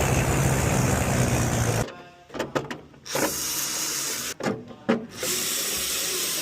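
Light-aircraft piston engine running steadily during a run-up. It cuts off suddenly about two seconds in. Several short stretches of hissing, rubbing noise follow, with gaps between them.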